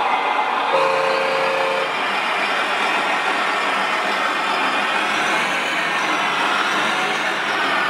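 Radio-controlled construction machines running with a steady mechanical engine-like noise. A short steady electronic tone sounds for about a second, just under a second in.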